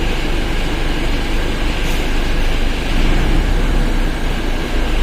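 Mercedes-Benz OF1721 BlueTec 5 bus running steadily under way, a loud diesel and drivetrain rumble with a faint steady whine above it, which the title puts down to the differential.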